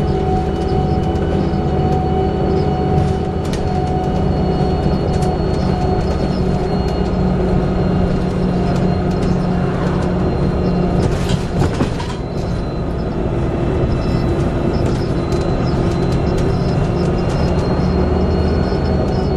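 Volvo B7TL double-decker bus running under way, heard from inside: a steady diesel engine and drivetrain drone with a thin, steady whistling whine over it, the whine that the uploader puts down to a bad differential. A brief rattle comes about eleven seconds in.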